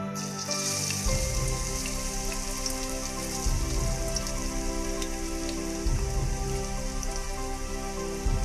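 Hot cooking oil in a wok sizzling as chopped shallots and garlic drop into it; the hiss cuts in suddenly at the start and carries on steadily. Soft background music plays underneath.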